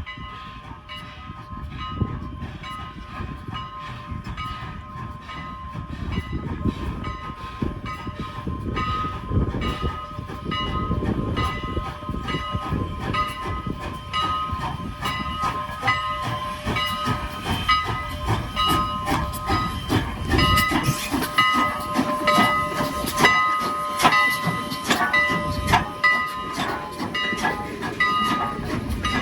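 A train going by, its wheels clacking over the rail joints in quick clicks that grow louder and denser through the second half, over a steady high ringing tone.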